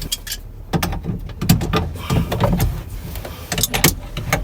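Irregular metallic clicks and knocks from a wrench working the nut on a boat's steering-cable through-hull fitting as it is tightened.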